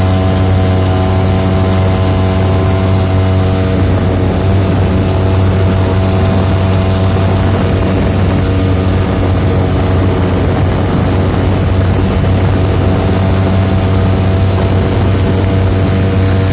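Boat's outboard motor running steadily at constant speed, with a strong low hum and even overtones. Its sound turns rougher for several seconds in the middle, then steadies again.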